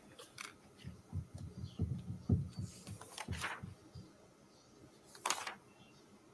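Soft low thumps and faint rustling picked up by a courtroom microphone, with a short hiss about five seconds in: the sounds of someone moving about and handling things near the mic.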